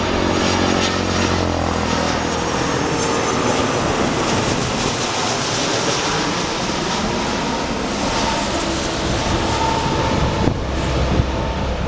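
Jet airliner on landing approach passing by, its engine noise steady and dense, with a high hissing whine that is strongest around the middle.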